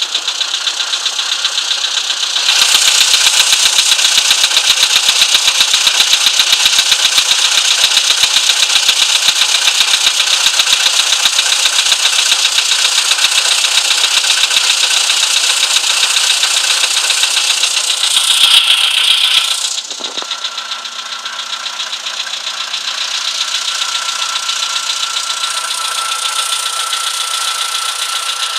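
VW Polo Sedan's 1.6-litre CFNA four-cylinder petrol engine running cold, with a rapid, even knocking in time with the engine. It gets louder a couple of seconds in and quieter after about twenty seconds. This is the knock that shows on a cold engine.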